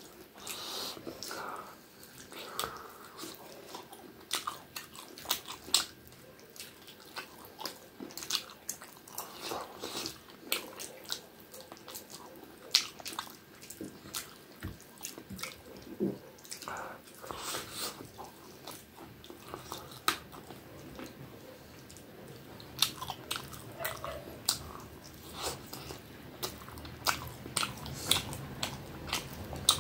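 Close-up eating sounds: a man chewing a mouthful of rice and curry, with many irregular wet clicks, smacks and occasional crunches of mouth and fingers.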